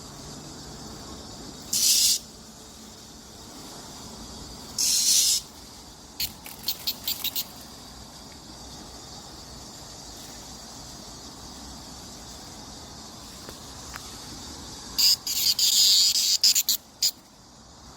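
Cicadas calling: loud, high-pitched buzzes come twice near the start, then a quick run of short pulses, then a dense burst of buzzes and pulses near the end. A steady high hum of more cicadas sits underneath.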